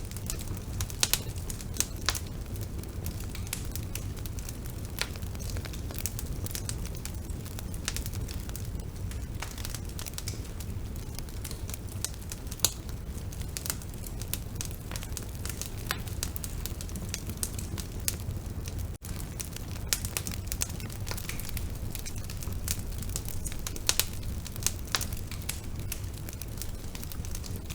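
Bonfire burning: wood crackling and popping in irregular sharp snaps over a steady low rumble.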